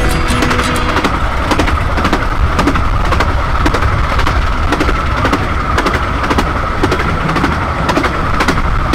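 Running noise of a 15-inch narrow-gauge railway carriage at speed: a steady rumble and rattle of wheels on the track with frequent irregular clicks, heard through the open carriage window.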